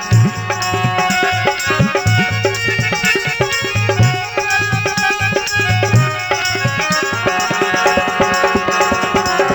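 Instrumental break in a Rajasthani folk song: hand-drum strokes keep a steady rhythm under sustained melodic tones, with no singing.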